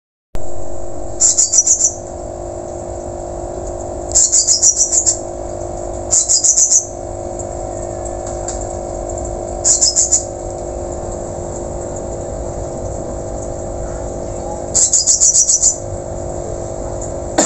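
Whistling thrush (ciung batu) calling in five short bursts, each a quick run of shrill high notes, spaced a few seconds apart, over a steady low hum.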